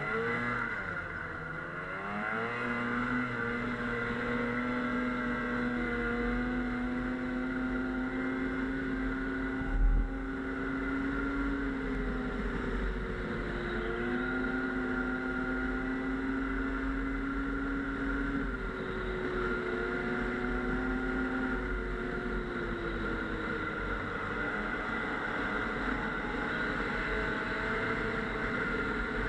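Snowmobile engine running under way, its pitch climbing as it speeds up at the start, then holding fairly steady with several dips and rises as the throttle changes. A single low thump about a third of the way through.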